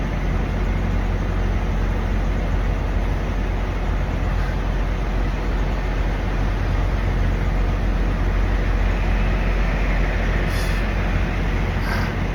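Steady low rumble of idling diesel semi-truck engines, with a few short clicks near the end.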